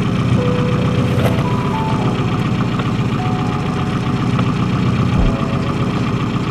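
Rover Mini engine idling steadily, with background music carrying a simple melody over it.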